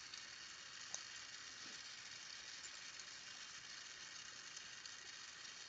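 Glassworking torch flame hissing faintly and steadily, with a small tick about a second in.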